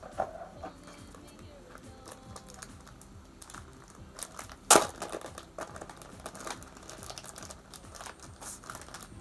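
Paper calendar being leafed through and handled: scattered light rustles and small taps, with one sharp knock a little under five seconds in.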